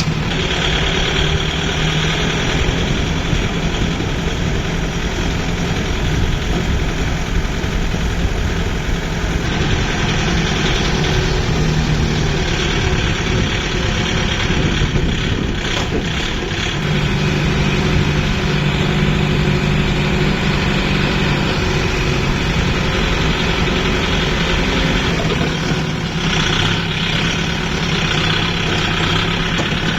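Kubota MU 5502 tractor's four-cylinder diesel engine running steadily, its low note shifting a few times.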